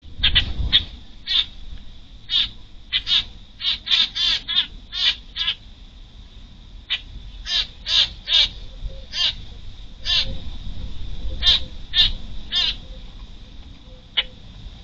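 Short, harsh bird calls repeated in quick, irregular bursts, thickest in the first five seconds, then again after a brief pause, with a last call near the end.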